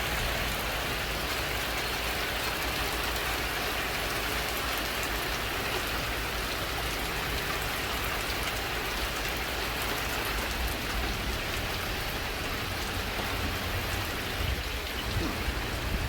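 Rain falling steadily and raining pretty good, an even hiss of drops on the ground and surfaces around.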